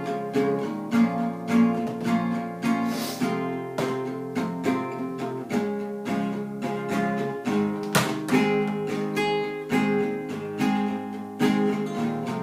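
Acoustic guitar music: strummed and plucked chords in a steady, even rhythm.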